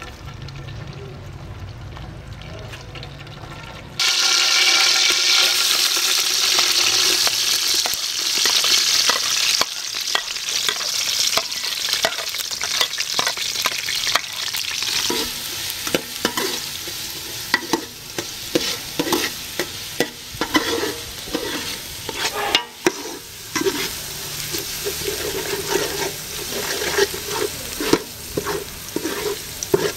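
Food sizzling in hot oil in a pan, starting abruptly about four seconds in and loudest at first, with frequent scrapes and clacks of a spatula stirring it.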